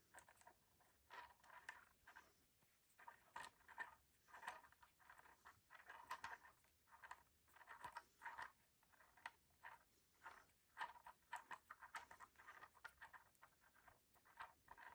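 Faint, irregular scraping and rustling strokes in quick succession, like packaging material being worked or rubbed by hand.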